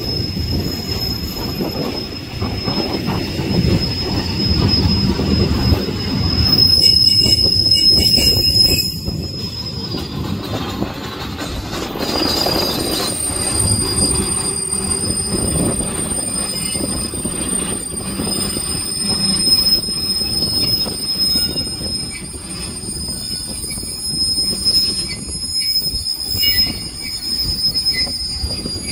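Ballast hopper wagons of a freight train rolling past, wheels rumbling and clattering on the rails with a steady thin high squeal from the wheels. It swells louder for a couple of seconds about seven seconds in, and a second higher squeal joins about halfway through.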